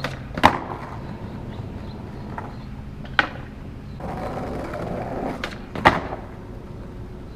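Skateboard wheels rolling on pavement, with three sharp clacks of the board hitting the ground, about half a second, three seconds and six seconds in; the first is the loudest.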